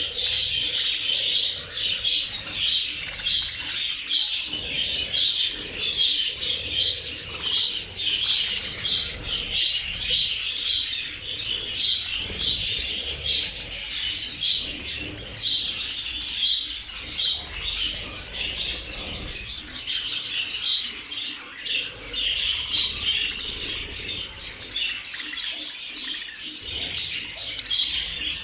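A large flock of budgerigars chattering all at once: a dense, continuous mass of overlapping chirps and warbles with no pause.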